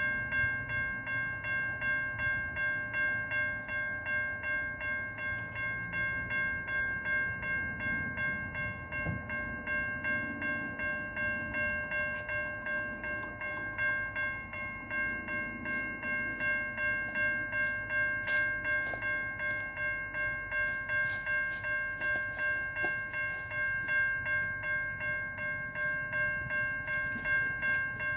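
Train sounds with a steady high tone pulsing about twice a second over a low rumble, and sharp clicks in the second half.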